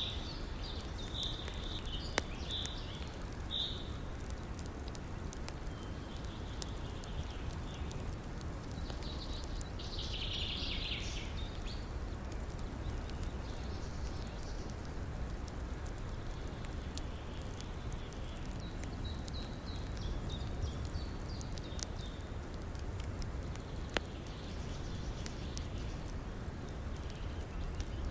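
Steady rush of a river with small crackles and pops from a wood fire, two sharper pops about two seconds in and near the end. Birds chirp high over it in short runs at the start, around ten seconds and again near twenty seconds.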